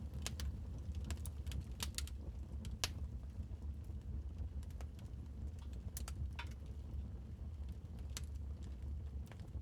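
Wood fire crackling in a fireplace: irregular sharp pops and snaps, a few louder ones near three seconds and six seconds in, over a steady low rumble of the burning fire.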